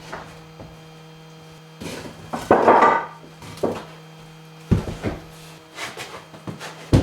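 Irregular wooden knocks and clatter of tools and materials being handled on a workbench, with a longer clattering scrape about two and a half seconds in and several sharp knocks later, over a steady low hum.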